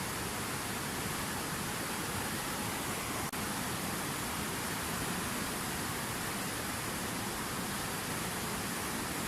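Water splashing down in a fountain waterfall, a steady, even rush of falling water, with a split-second dropout about three seconds in.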